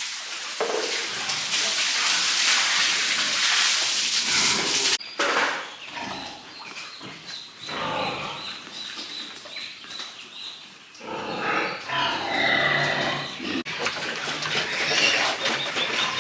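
Pigs grunting and squealing in irregular bursts, loudest about two-thirds of the way through. A steady hiss fills the first five seconds and cuts off suddenly.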